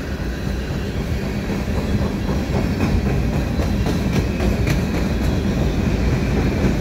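Freight train's covered hopper cars rolling past at speed: steel wheels rumbling steadily on the rails, with scattered sharp clacks, more of them in the second half.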